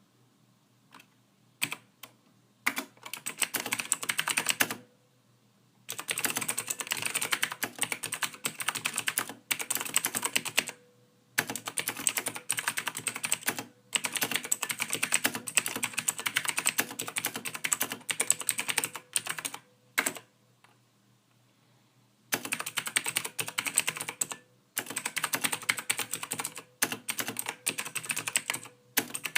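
Computer keyboard typing: rapid runs of soft key clicks lasting a few seconds each, broken by brief pauses.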